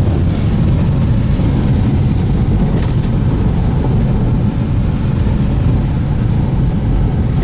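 Steady low rumble of a car driving, heard from inside the cabin, with a short hiss about three seconds in.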